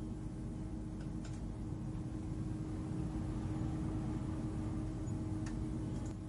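Steady low ambient space hum of a sleep soundscape: a constant droning tone over a soft rumble, with a few faint ticks.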